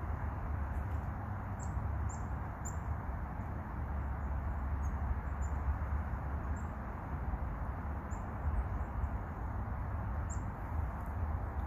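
Small songbirds giving short, high, thin chirps, about a dozen scattered irregularly, over a steady low rumble.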